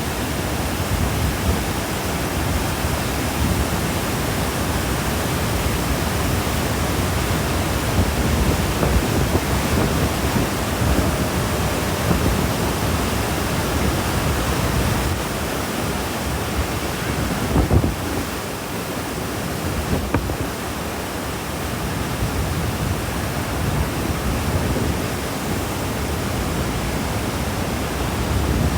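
Steady rush of water falling at Niagara Falls, with wind buffeting the microphone at times and a brief bump a little past halfway.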